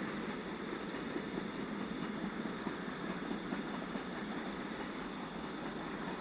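Container train wagons rolling steadily past, with a continuous rumble and rattle of steel wheels on rail as the long freight train pulls out.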